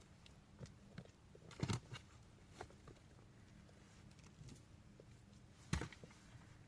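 Faint, sparse steps on stony ground: scattered knocks and clicks, the two loudest about two seconds in and near the end.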